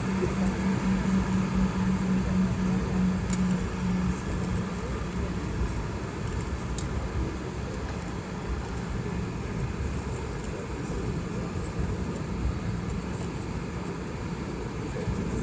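Steady jet airliner noise heard inside the cabin of a Boeing 717, from its two rear-mounted Rolls-Royce BR715 turbofans and the airflow. A low hum fades out about four seconds in.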